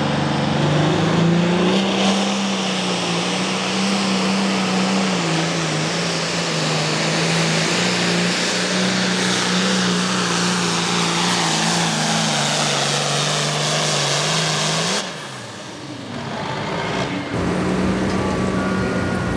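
Super Farm pulling tractor's turbocharged diesel engine running hard under load down the track, a loud steady drone with a high whine above it. It cuts off abruptly about fifteen seconds in, and an engine is heard again a couple of seconds later.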